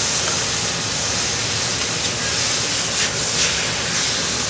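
Thin-sliced beef sizzling in a very hot wok: a steady frying hiss, with a few light scrapes of a spatula stirring it.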